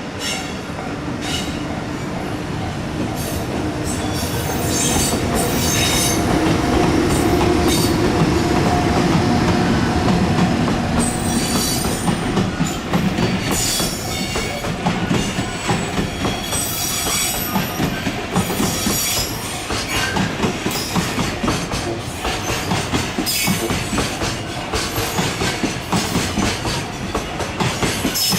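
A train running past on the tracks, its wheels clicking over rail joints with bits of high wheel squeal; it grows louder over the first several seconds and keeps on clattering.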